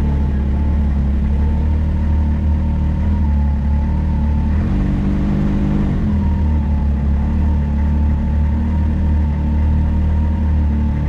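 Can-Am Maverick X3 side-by-side's turbocharged three-cylinder engine running steadily while driving on a trail, with a thin high whine over it. About five seconds in, the engine note changes for a second or so and the whine drops out before it returns.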